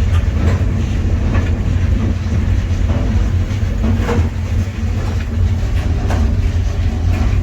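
Freight train rolling, heard from on board a freight car: a loud, steady low rumble with a few faint clacks scattered through.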